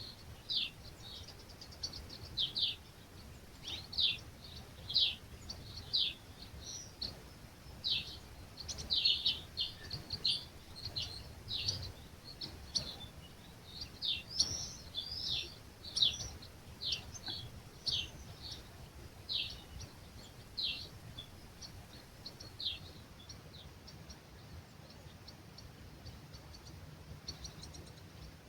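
Birds singing at dawn in an olive grove: many short, high chirps, each falling in pitch, come in quick runs and thin out near the end. A faint low hush of breeze lies underneath.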